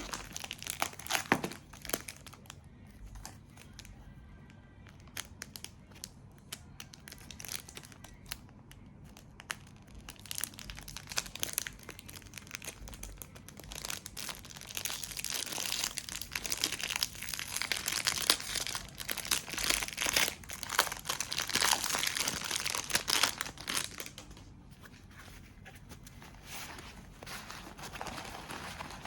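Wrapping being crinkled and rustled by hand in crackling bursts. A few sharp crinkles come about a second in, and the handling is busiest and loudest through the middle.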